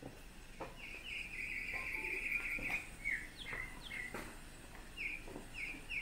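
A small songbird singing: a buzzy trill of about two seconds, then a run of short, high, down-slurred whistled notes and repeated chirps. A few soft knocks sound under it.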